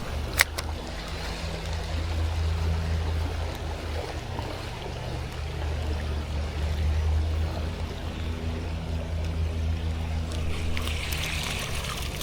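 Canoe moving along a creek: steady low rumble and the wash of flowing water, with a sharp click about half a second in.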